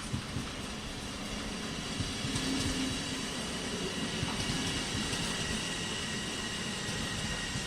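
Train passing: a steady rumble of the wheels on the rails with irregular low knocks, and a faint steady high whine above it.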